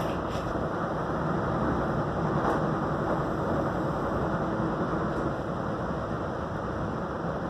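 Steady rumble and hiss of a moving passenger train, heard from inside the car.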